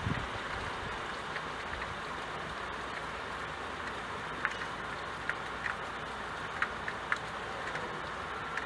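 Steady rain falling as an even hiss, with scattered drips ticking sharply now and then in the second half.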